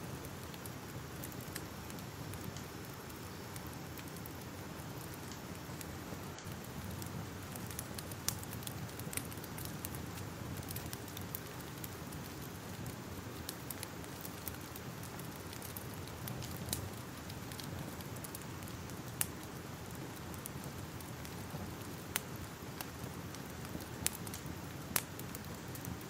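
Fire crackling: a steady rushing bed with frequent irregular small snaps, and a few louder pops scattered through.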